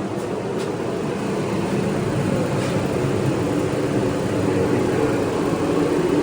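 Forced-air gas heater running steadily, its fan and burner making a continuous drone.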